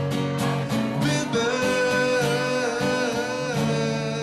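A singer with guitar accompaniment: a long held vocal note with a slow vibrato comes in about a second in, over steady guitar chords.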